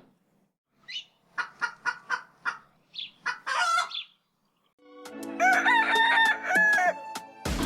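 Chickens calling in short, rapid clucks, then a rooster crowing one long cock-a-doodle-doo about five seconds in. Near the end a loud, steady noise cuts in suddenly.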